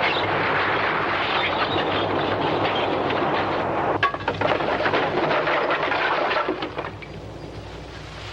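Earthquake sound effect: a dense rumbling roar full of rattling and clinking, like glass and debris shaking, with a sharp bang about four seconds in. It dies down near the end.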